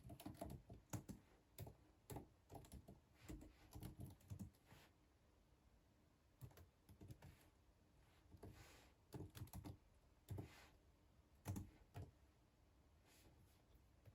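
Typing on a computer keyboard: quiet keystrokes, a quick run of them for the first few seconds, then scattered single keys and short runs with pauses between. A brief soft brushing sound about nine seconds in.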